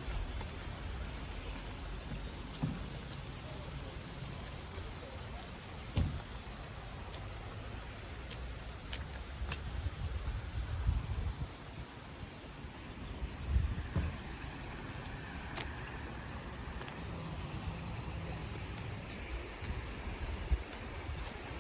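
A small bird repeating short, high, falling chirps roughly once a second, over a steady low rumble of outdoor ambience. A few brief knocks stand out.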